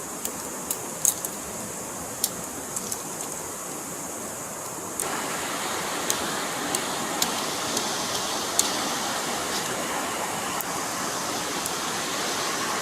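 Steady rushing of a forest stream, with scattered sharp clicks and taps over it. The rushing gets suddenly louder and fuller about five seconds in.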